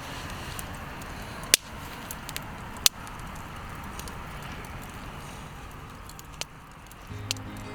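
Wood campfire crackling, with a steady hiss and two loud sharp pops, one about a second and a half in and one near three seconds.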